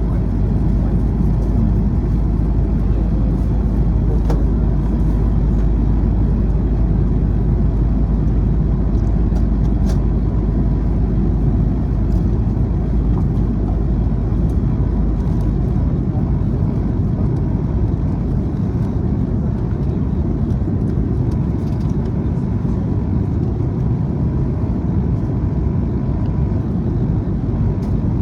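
Steady low rumble of a vehicle in motion, with a faint steady whine over it.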